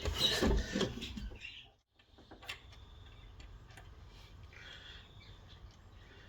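Handling noise as a black-and-white TV picture tube is worked down into its cabinet mounts: scraping and shuffling for about a second and a half, then faint scattered clicks.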